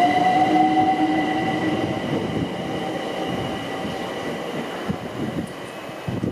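Electric train running away, its motor whine gliding slightly upward in pitch over several steady higher tones and rumbling wheels, all slowly fading.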